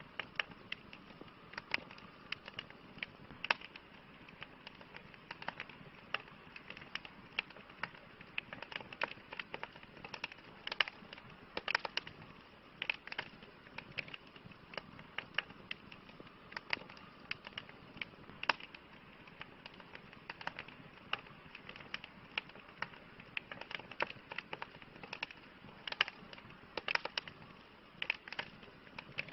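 Campfire crackling: irregular sharp pops and snaps, several a second, over a soft steady hiss of burning.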